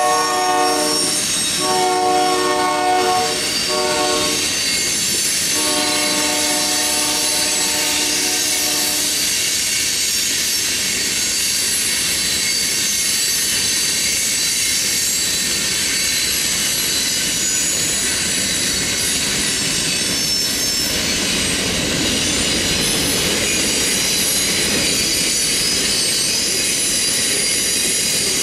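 Union Pacific freight locomotive's air horn blowing the grade-crossing signal: the end of a long blast, a second long blast, a short one and a final long blast that stops about nine seconds in. Then the freight cars roll past with a steady rumble of wheels on rail and a thin, high, steady wheel squeal.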